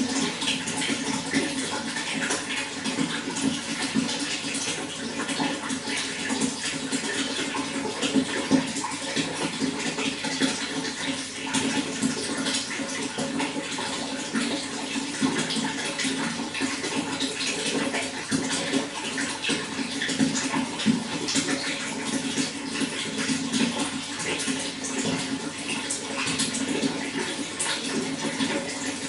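Running water flowing steadily, with a constant dense spatter of small splashes and gurgles.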